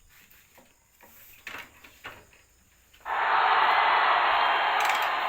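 Honda TMX 155's single-cylinder four-stroke engine starting cold on the first try and running, coming in suddenly about three seconds in after a few faint clicks. The cold-morning start is easy, which the owner takes as a sign that the ignition, carburettor and air filter are in good order.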